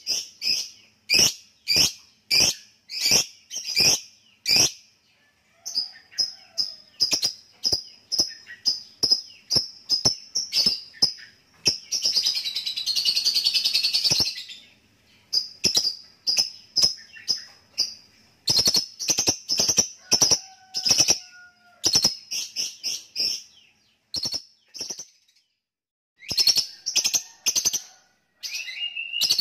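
Lovebird calling in long series of short, sharp, high chirps, a few a second, breaking about halfway through into a dense continuous chatter lasting around two seconds before the chirping resumes.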